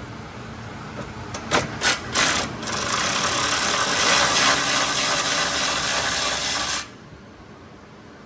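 A power tool backing out an exhaust hanger bolt: a few short blips, then a steady run of about four seconds that stops abruptly.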